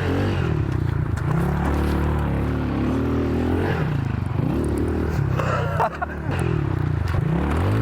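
Honda CRF110 pit bike's small single-cylinder four-stroke engine being ridden hard on dirt, revving up and down as the throttle opens and closes through the turns, with a brief drop in revs about six seconds in.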